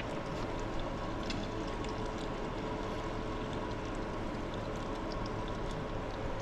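Old transmission fluid draining in a steady stream from the drain plug of a Scania BR111 bus's gearbox into a catch container.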